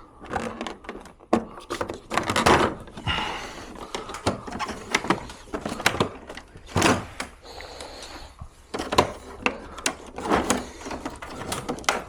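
Irregular clicks, knocks and scrapes of plastic parts being handled and pried apart while an air-conditioner indoor unit is disassembled for cleaning.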